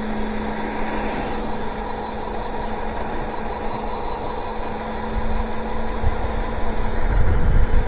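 Electric bike riding on wet pavement: tyres hissing through standing water, under a steady whine from the hub motors. Low wind buffeting on the microphone grows stronger near the end.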